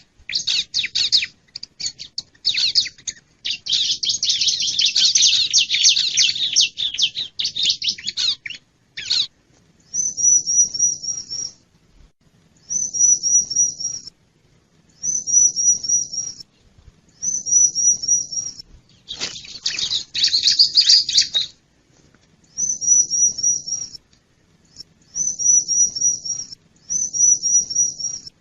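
Bar-winged prinia (ciblek) calls: a long burst of rapid, scratchy chattering, then short phrases of about five quick high rising notes repeated every couple of seconds, with another chattering burst about two-thirds of the way through.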